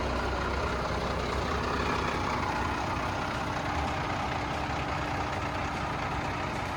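International 4700 dump truck's DT466 inline-six diesel engine running steadily, a constant low rumble with a broad hiss above it.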